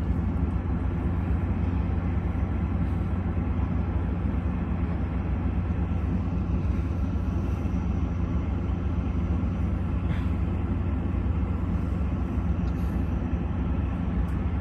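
A MARC commuter train of Bombardier bilevel coaches standing at the station with its diesel locomotive running, giving a steady low drone that does not change.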